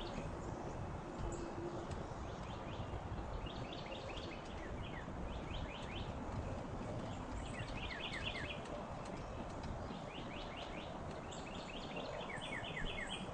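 Outdoor ambience: steady low background noise with bird song, short runs of quick, high chirps repeating every second or two.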